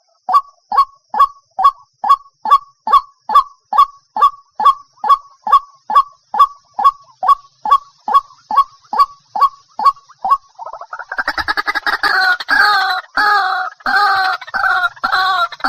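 White-breasted waterhen calling: a long, steady series of short falling notes, about two to three a second, giving way about ten seconds in to a louder, faster run of rough calls at several pitches.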